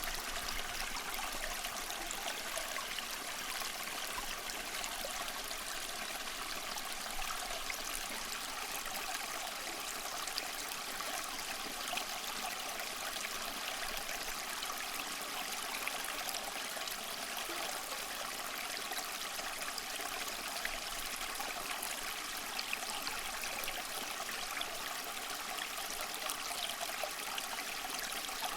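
Water from a small tabletop fountain trickling and splashing steadily.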